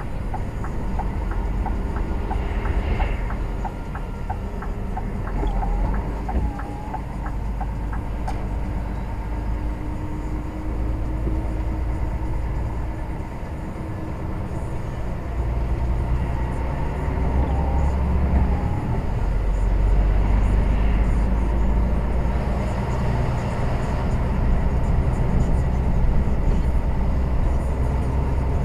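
Lorry driving on the road, heard from inside the cab: steady low engine and road rumble that swells and eases, with a run of quick ticks in the first few seconds and a few short squeaks.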